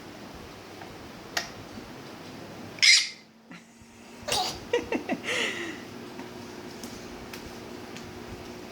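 A cat meowing a few short times about halfway through, just after a brief loud burst of noise. A faint steady hum follows.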